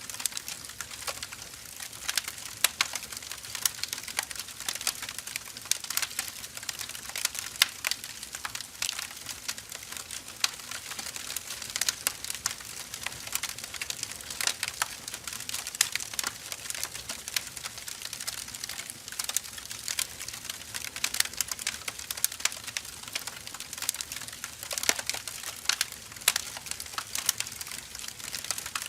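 Burning firewood crackling: a steady hiss of fire with dense, irregular sharp pops and snaps.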